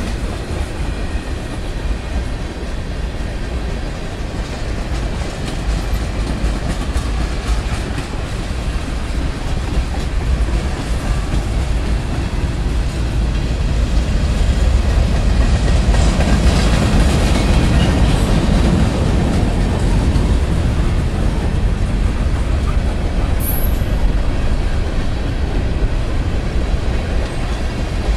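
Cars of a Norfolk Southern manifest freight train, mostly tank cars and centerbeam flatcars, rolling past: a steady rumbling noise of steel wheels on the rails that gets louder about halfway through. A short high squeak comes late on.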